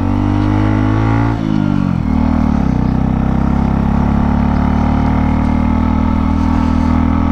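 Motorcycle engine running under way on a steep climb. Its pitch rises slightly, drops sharply about a second and a half in, as with a gear change or easing off the throttle, then holds steady.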